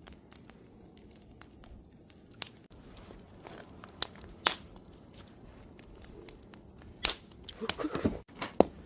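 Wood campfire burning, with a steady low hiss broken by irregular sharp pops and cracks, and a busier cluster of crackles near the end.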